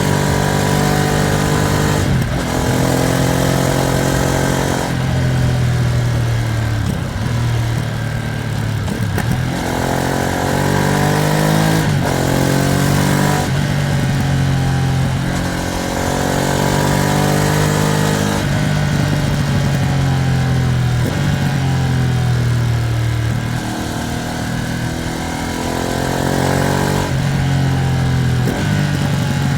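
Ducati Streetfighter V2S's 890 cc V-twin engine under way, revs climbing and falling again and again as the bike accelerates through the gears and eases off, over a steady rush of wind noise.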